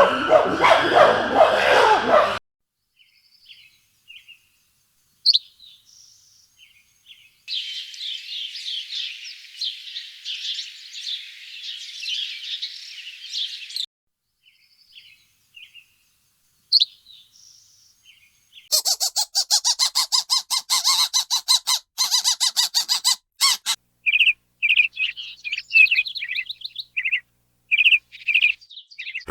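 Birds chirping and calling in several separate stretches: scattered chirps, a dense run of twittering, a fast rattling chatter, then repeated short high calls. A horse's neigh trails off in the first two seconds.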